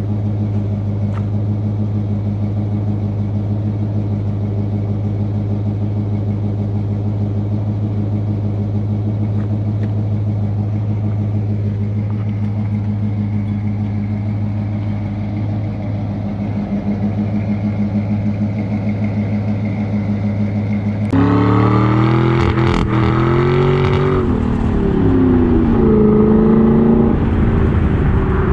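A 350 small-block Chevy V8 with long-tube headers and Thrush welded mufflers idling steadily. About three-quarters of the way through it turns suddenly louder and revs up and down a few times.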